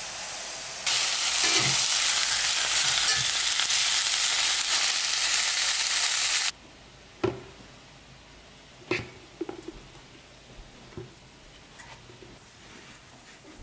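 Hamburger patties frying in a cast-iron skillet: a loud, steady sizzle that cuts off suddenly about six and a half seconds in. Before it comes a quieter frying hiss from curly fries in a small electric deep fryer, and after it only a few light knocks and taps.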